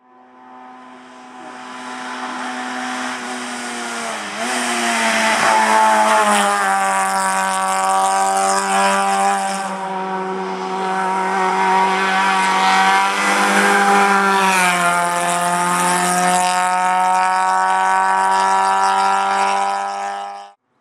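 Racing car engine held at high revs, with a steady, many-toned note that dips briefly about four seconds in and again near fifteen seconds. It fades in at the start and cuts off suddenly just before the end.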